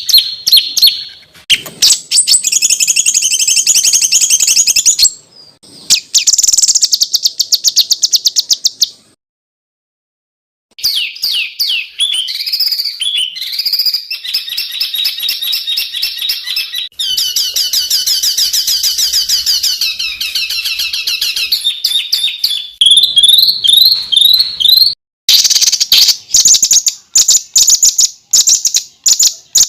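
Songbird song for masteran (tutor song): fast, dense runs of harsh, high repeated notes and trills, the style changing several times as different recordings follow one another, with about two seconds of silence a third of the way in.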